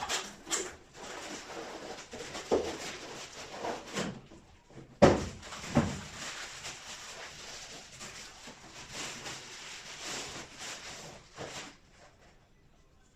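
Handling noises: irregular knocks, clicks and rustling, with the loudest sharp knock about five seconds in, stopping a little before the end.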